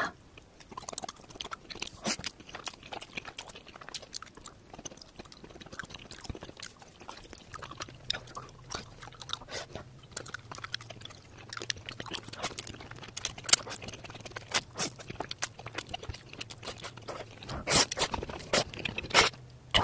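Close-miked eating of seasoned pork skin and carbonara: irregular chewing with crisp crunches and sharp wet mouth clicks, the loudest crunches coming near the end. A faint low hum comes in about a third of the way through.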